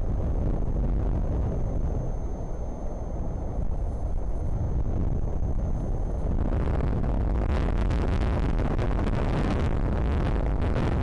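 Strong wind buffeting the microphone, a steady low rumble that gusts harder about six and a half seconds in.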